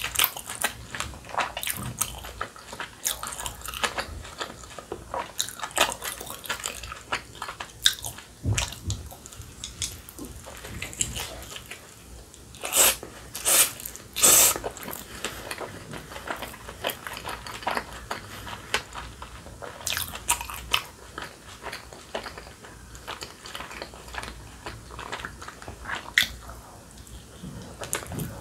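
Close-miked eating: biting into and chewing a spicy dumpling, wet and crackly with frequent small clicks, and a few louder bursts about halfway through.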